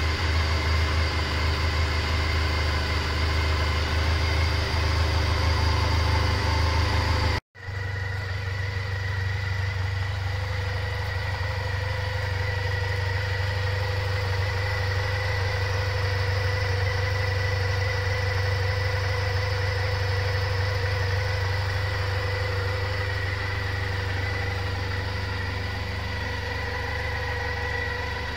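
Honda RVF400R NC35's 400 cc V4 engine idling steadily with its carburettors freshly synchronised, back running after ten years laid up. About seven seconds in the sound breaks off for an instant, then the idle carries on slightly quieter.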